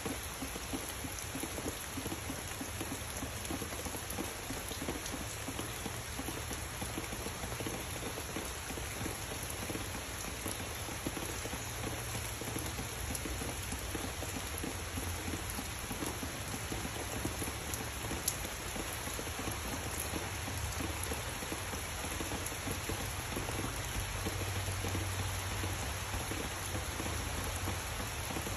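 Steady rain falling on leafy trees and a wooden fence, an even hiss of drops. A low rumble swells underneath twice.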